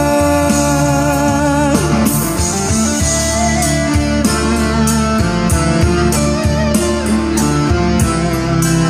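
Live band music: an instrumental break after the chorus, with a steady beat and guitar. A long held note ends about two seconds in.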